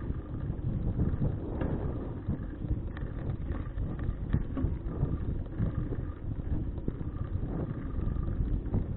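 Wind buffeting an action camera's microphone while riding a bicycle, with a steady low rumble from the tyres on the road and a few small clicks and rattles.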